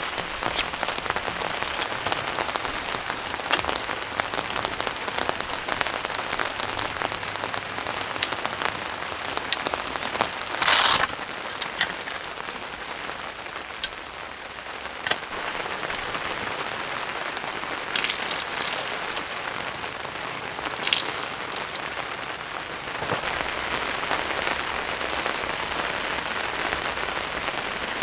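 Heavy rain falling steadily, with many single drops ticking through it and a few brief louder splashes of water, about 11, 18 and 21 seconds in.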